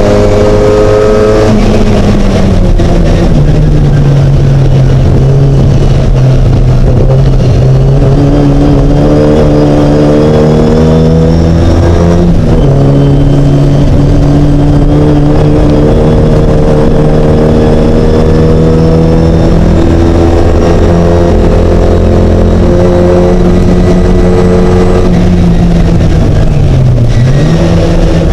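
Racing classic Mini's engine running hard and continuously, its pitch climbing, then dropping sharply several times as the driver changes gear or lifts off.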